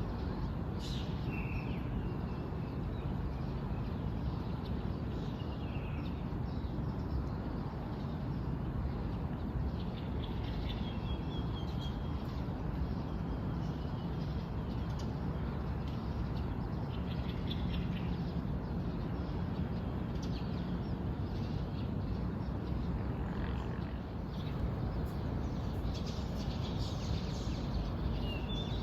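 Morning birdsong: several small birds chirping and trilling on and off, over a steady low background rumble.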